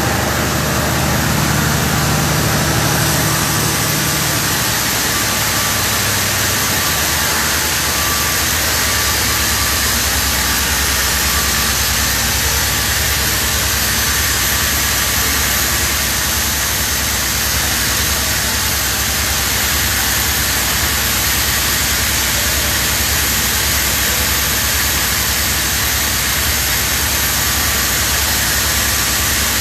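Hangzhou Fortune oxygen-producing machine running: a loud, steady mechanical noise with a low hum, the deepest part of the hum dying away in the first few seconds.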